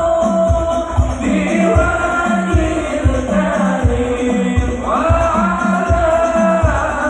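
Sholawat devotional song sung by voices over a hadrah ensemble of frame drums, with low drum strokes keeping a steady beat of about two a second, amplified through a PA sound system.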